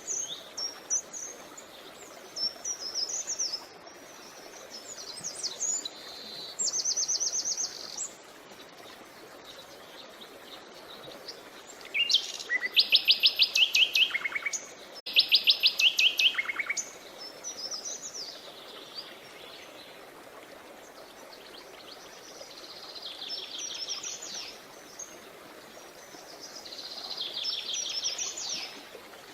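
Songbirds singing over the steady rush of a creek: several phrases of fast, trilled notes, the loudest two in the middle, with softer chirps between.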